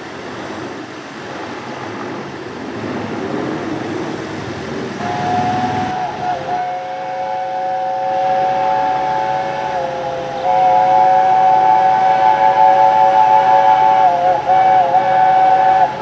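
Steam locomotive 60163 Tornado passing at speed: a rumble of the train is followed, about five seconds in, by its chime whistle sounding a long, steady chord of several notes that grows louder about halfway through and wavers briefly near the end.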